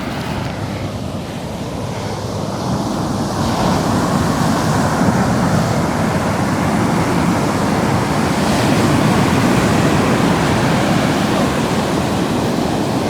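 Ocean surf washing up the beach, a steady rushing that swells about three seconds in and eases off a little near the end.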